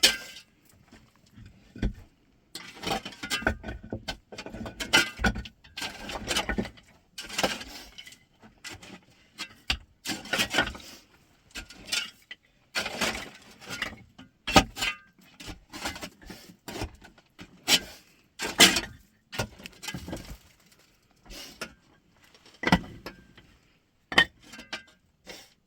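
Irregular clatter and scraping of objects being handled, in short bursts with pauses between them.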